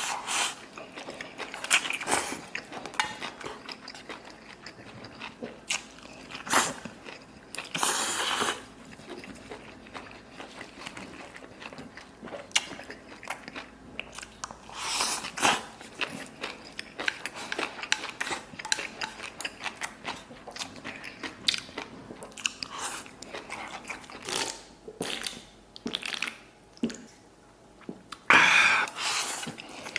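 A person eating close to the microphone: chewing and biting mouthfuls of rice with chili stir-fried pork belly. Short sharp clicks run all through it, and a few louder bursts stand out along the way.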